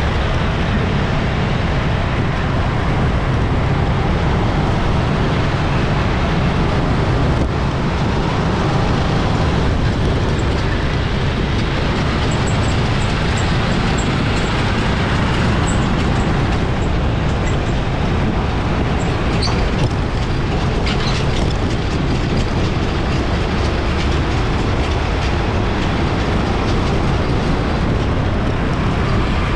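Steady city street traffic: a continuous rumble of engines and tyres passing, with no pauses.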